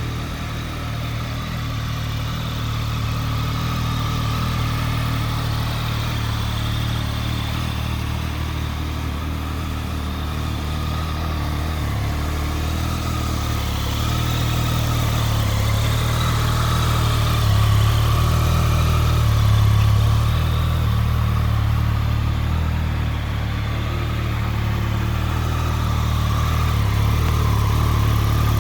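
Triumph Street Triple R's 765 cc three-cylinder engine idling steadily, its note lifting a little a couple of times around the middle.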